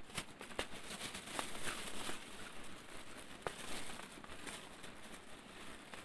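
Rain pattering, with many scattered sharp taps of drops and a denser rustle in the first few seconds.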